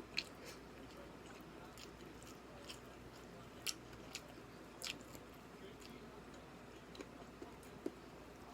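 A person chewing and eating, soft and low, with a few short sharp clicks scattered through.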